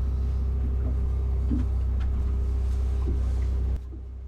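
Steady low mechanical hum of the generator-powered air conditioning running, with a faint steady tone above it. Near the end it drops suddenly to a quieter hum.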